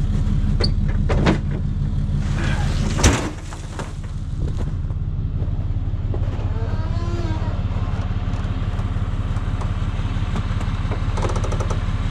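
A truck engine idling steadily, the truck halted in position at the chipper. A sharp knock comes about three seconds in, and for a moment afterwards the engine sounds a little quieter.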